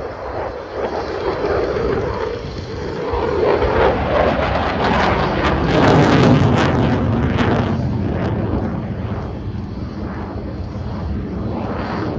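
Eurofighter Typhoon jet fighter making a pass. Its engine roar swells to a peak about six seconds in, then fades as it moves away.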